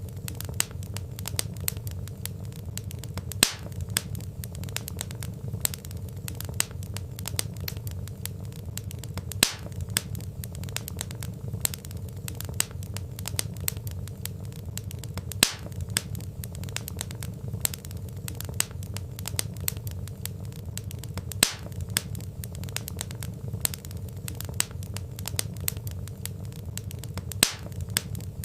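Log fire crackling over a steady low rumble, with many small ticks and a louder sharp pop about every six seconds.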